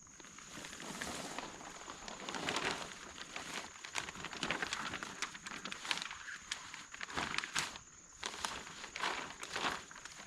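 Irregular crunching footsteps, with a steady thin high-pitched tone behind them.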